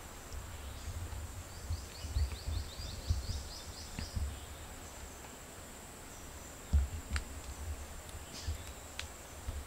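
Forest ambience: a bird gives a quick run of about ten short, falling chirps, roughly five a second, over a steady high-pitched whine and a low rumble.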